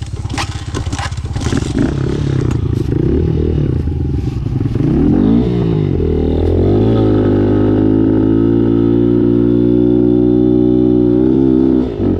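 Dirt bike engine under throttle on a rough trail, with clattering knocks in the first few seconds. The revs then climb and are held high and steady, before briefly dropping near the end.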